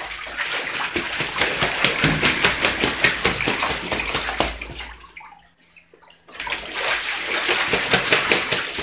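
A pet goose splashing and flapping in a bathtub of water, throwing water around in quick repeated splashes. The splashing stops for about a second, roughly five seconds in, then starts again.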